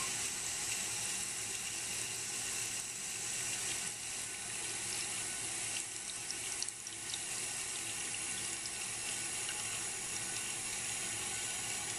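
Toilet tank refilling through a Fluidmaster 400A fill valve: a steady hiss of water in a 2000 Briggs Vacuity tank, which is slow filling.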